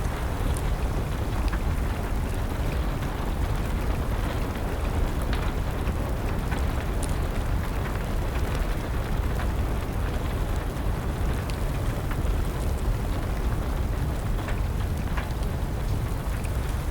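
Wood fire crackling, with scattered sharp pops, over steady rain and a low rumble.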